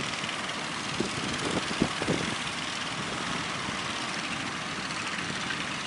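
A fishing boat's engine running steadily under a constant rush of surf and wind, with a few short knocks in the first two seconds.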